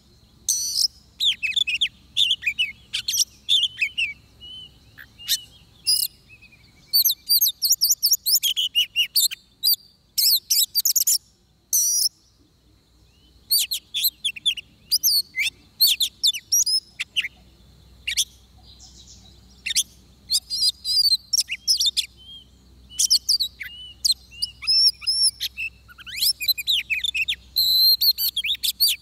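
Oriental magpie-robin singing in quick bursts of varied whistles and chirps, phrase after phrase with short breaks between them.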